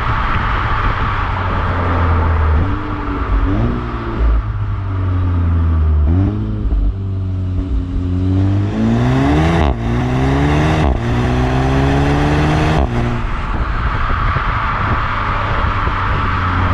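Seat Leon Cupra 280's turbocharged 2.0-litre four-cylinder heard at the tailpipe through its stock exhaust, warm, idling and blipped about six times, each blip a quick rise and fall in pitch, the last three ending in a sharp crack as the revs drop. It settles back to a steady idle near the end.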